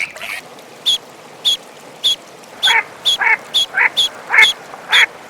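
Ducks quacking: short calls about twice a second start about halfway through, over a regular run of short, high pips.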